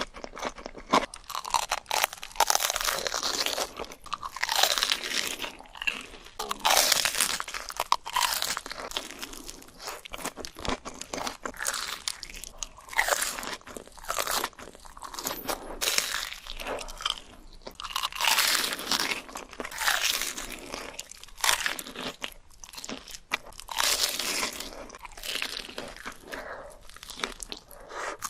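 Close-miked ASMR eating: crunchy food bitten and chewed over and over in an irregular run of loud crunches.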